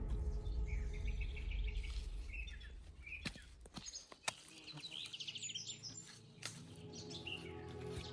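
Small birds chirping and twittering in short scattered calls, with a few sharp knocks in the middle.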